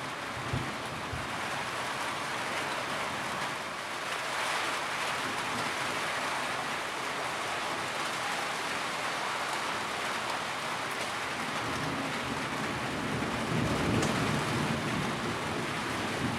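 Steady rain falling, with a low rumble of thunder building up near the end.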